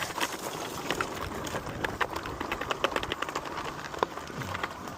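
Lectric e-bike riding down a rough woodland trail: the tyres and bike give a dense, irregular run of sharp clicks and knocks over a rough noise.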